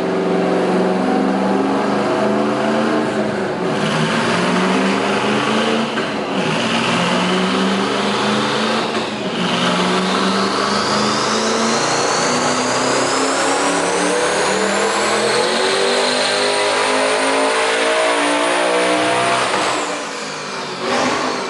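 Car engine at full throttle on a chassis dyno, revving up and dropping sharply three times as it shifts up through the gears, then pulling in one long climb to high revs. A thin high whine rises along with the revs during the long pull. The engine lets off near the end.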